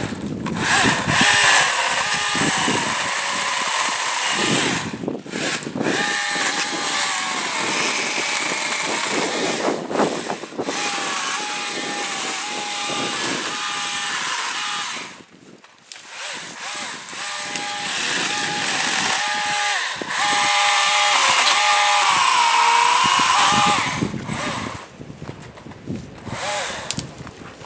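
Husqvarna 120i battery-powered chainsaw's electric motor whining as it cuts hard maple limbs. It stops briefly several times between cuts, and the pitch sags under load, most clearly near the end.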